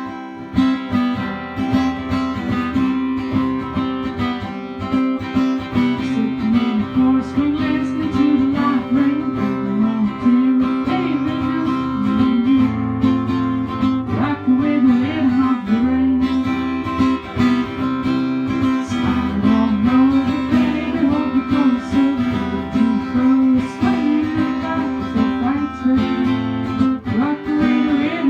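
Acoustic guitar music, strummed, with a wavering melody line carried over it.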